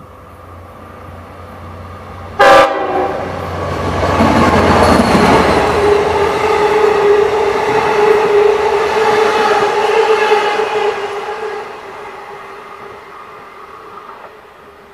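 A Long Island Rail Road diesel train with bi-level coaches sounds a short, loud horn blast and then rumbles past close by. Its wheels clatter over the rails, with a steady tone running under the noise. The sound fades near the end as the train moves off.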